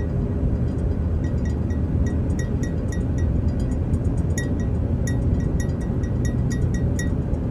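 Steady road and engine rumble inside a moving car, with light clinking rattles ticking through it.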